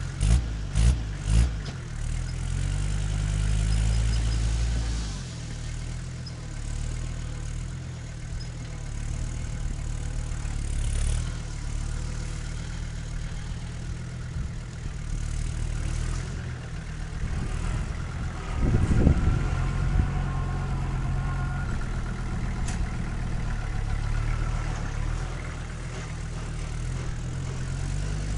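Agricultural tractor engine running steadily, with a few sharp knocks about a second in and a louder surge about two-thirds of the way through.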